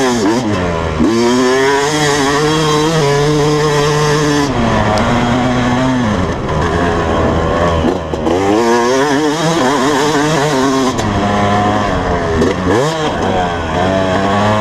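Dirt bike engine being ridden hard, its pitch climbing under throttle and dropping sharply at each shift or throttle-off, over and over.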